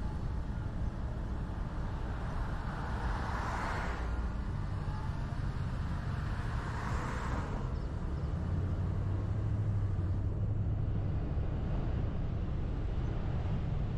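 A car driving on a road, heard as a steady low rumble of road and engine noise. Two louder swells of noise come and go, about three and a half and seven seconds in.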